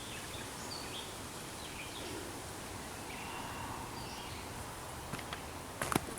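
Woodland ambience: a steady hiss with a few faint, short bird chirps scattered through it. A few sharp clicks come near the end.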